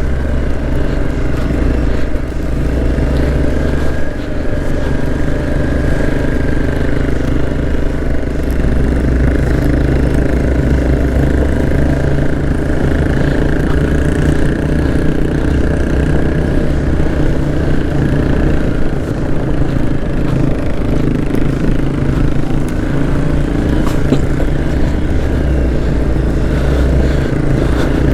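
Motorcycle engine running steadily under load while riding, its note shifting a few times as the throttle or gear changes.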